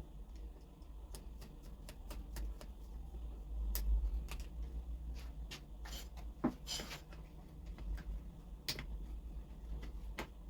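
Scattered light clicks and taps from small parts and tools being handled at a workbench, with a short scrape about seven seconds in, over a low steady hum.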